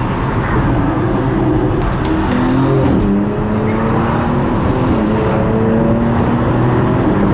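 Car engine running while driving, its pitch stepping up and down several times with throttle and gear changes, over steady road rumble.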